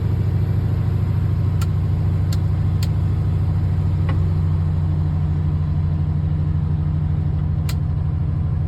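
Semi truck's diesel engine idling steadily while its air compressor builds pressure in the air brake tanks, before the governor cuts out. A few short sharp clicks sound over the idle.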